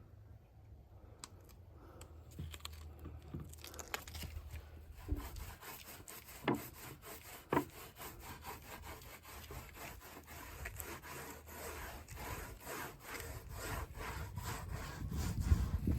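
Repeated rubbing strokes against the wooden drum shell, about two to three a second, starting faint a few seconds in and growing louder toward the end.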